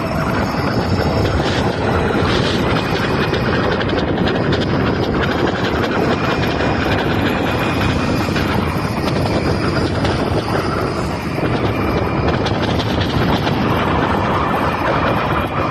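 Steady wind rush on the microphone from riding an electric bike, loud and unbroken, with road noise underneath.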